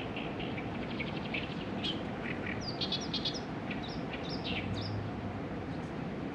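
Small birds chirping and twittering in many short, quick calls and brief trills, over steady outdoor background noise.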